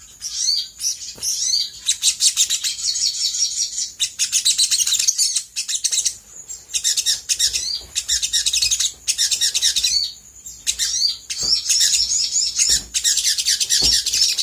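Olive-backed sunbird singing in rapid, high-pitched chirps and twittering runs, with short pauses about five and ten seconds in.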